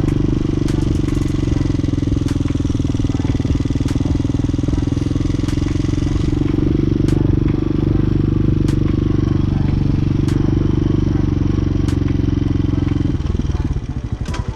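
250cc motorcycle engine running steadily under throttle, with scattered clicks and clatter. A second or so before the end it drops off to a quieter, slower-pulsing idle.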